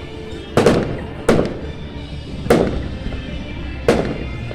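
Fireworks exploding overhead: four loud bangs at uneven intervals, each trailing off in a rolling echo.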